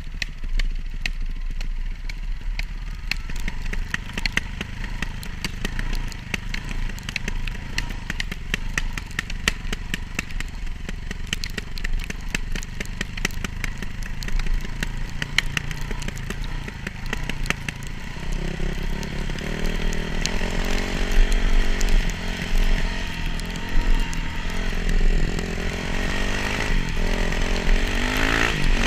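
Dirt bike engine running while being ridden, over a steady low wind rumble and a dense run of rapid ticks and clatters. Past the middle its note becomes clearer and rises and falls with the throttle.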